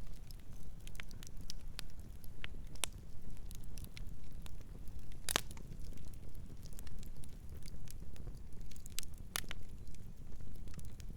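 Campfire burning: a steady low rumble of flames with irregular sharp crackles and pops from the wood, the loudest pop about five seconds in.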